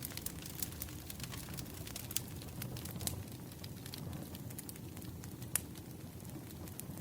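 Firewood burning, with a steady low rumble under frequent sharp crackles and pops; the loudest pop comes a little past halfway.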